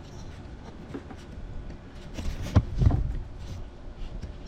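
Wind buffeting the microphone in a strong breeze. A few short knocks come about two to three seconds in.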